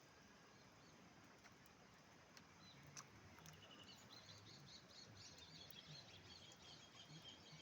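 Faint birdsong: from about halfway through, a bird gives a fast run of short, high repeated chirps over a quiet outdoor background, with a few faint scattered clicks.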